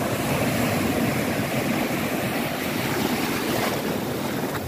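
Ocean surf washing continuously on a beach, with wind buffeting the microphone.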